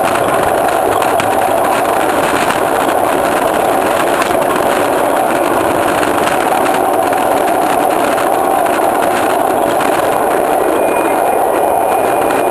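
Miniature railway train running steadily, heard from its rear caboose: a continuous rumble and rattle of wheels on track, with a faint thin squeal near the end.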